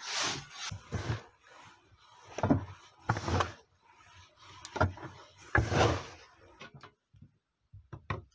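Digging in sandy, stony soil: a run of scraping strokes about once a second, then a few short sharp clicks near the end.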